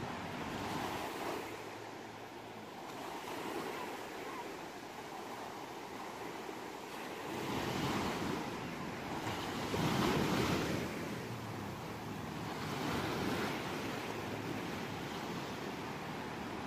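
Sea waves washing onto a shore in slow surges every few seconds, the biggest swell about two-thirds of the way through.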